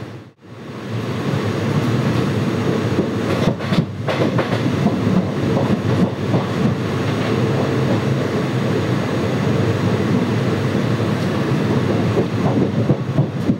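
Express train coaches running at speed, heard from an open coach doorway: a steady rumble of wheels on the rails with irregular clicking and rattling over rail joints.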